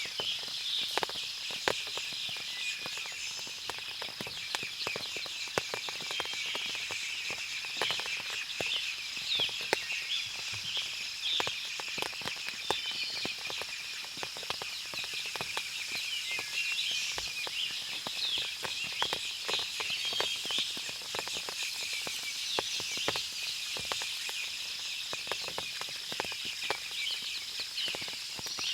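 Forest ambience after rain: a dense, steady chorus of small birds and insects chirping high up, with water dripping from the trees in frequent irregular ticks.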